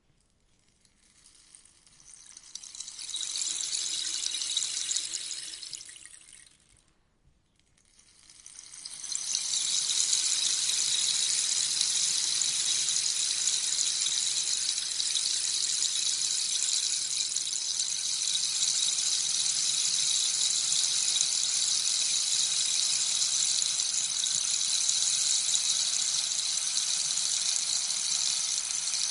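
Rainstick being tipped, its inner pebbles or seeds trickling down in a soft rain-like hiss. A first pour swells and fades over several seconds; after a brief pause a second pour builds and then holds steady.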